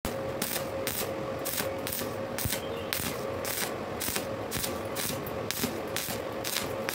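Stick (arc) welding on thin square steel tube: the electrode's arc crackles and sizzles steadily, with irregular sharp pops and a faint steady hum underneath.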